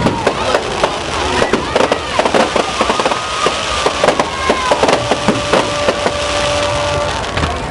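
Fireworks crackling: dense, irregular sharp pops and crackles throughout, with a steady whistle-like tone held for about two seconds after the middle.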